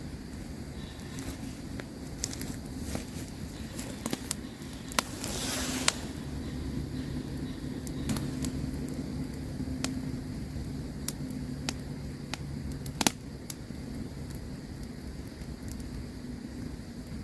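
Campfire crackling: irregular sharp pops and snaps over a steady low rumble, with a brief hiss about five seconds in and one louder pop near the end.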